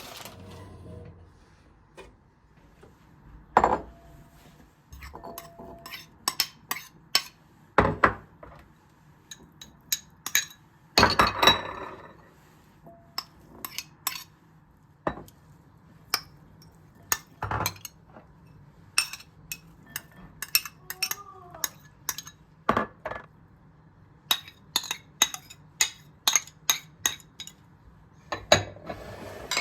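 Kitchen work sounds: dishes, pots and cutlery knocking and clinking against each other and the counter, dozens of separate sharp clinks at an irregular pace, some ringing briefly.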